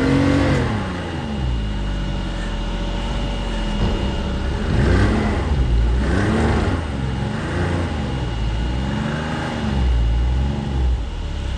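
Snowmobile engine revved up and down again and again, about six times, as the machine tries to power out of deep snow while stuck with a heavy toboggan in tow.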